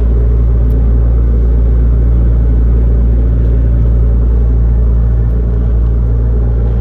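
Boat motor running steadily under way, a loud, even low rumble with no change in pace.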